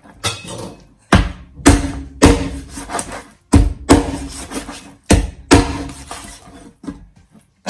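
Knife chopping through raw chicken joints onto a cutting board: seven sharp strikes, mostly in pairs about half a second apart, some with a brief ring after.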